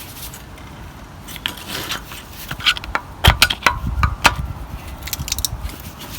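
Front brake caliper and pads on a Toyota Yaris being levered to push the pads and piston back: irregular metallic clinks and scrapes from about a second in, with the loudest dull knocks in the middle.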